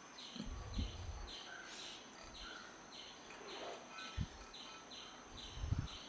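Faint insect chirping in the background, a short high chirp repeated about twice a second, with a few soft low thuds, the loudest near the end.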